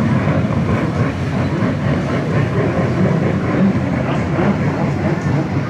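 Jet ski engine running steadily, a dense low rumble heard across the water as the craft circles and performs stunts.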